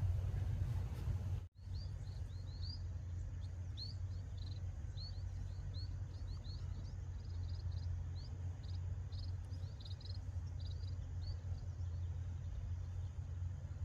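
A small bird chirping: a long run of short, quick, rising chirps, high in pitch, over a steady low rumble. The sound drops out briefly about one and a half seconds in, just before the chirping starts.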